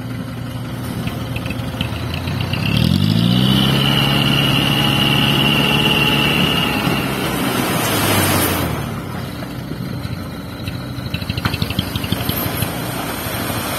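Diesel dump truck engine idling, then revving up about three seconds in and holding high revs with a steady whine while the hydraulic tipper raises the loaded bed. A short rushing hiss comes near the middle, and then the revs drop back.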